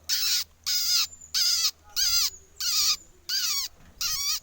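Pied bushchat (burung mantenan) calling: a loud call repeated seven times in an even rhythm, each about half a second long with falling notes.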